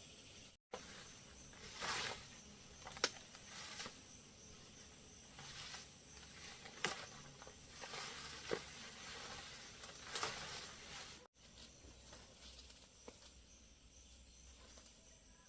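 Outdoor ambience with a steady high insect drone, broken by a series of short rustles and sharp snaps, like leaves and twigs being handled or stepped on. The sound cuts out completely for an instant twice.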